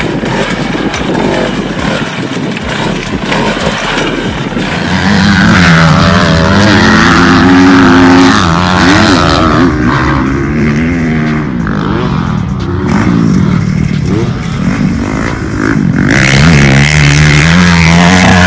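Off-road vehicle engines revving, their pitch rising and falling. The first few seconds are rougher and noisier, and the sound changes abruptly a few times.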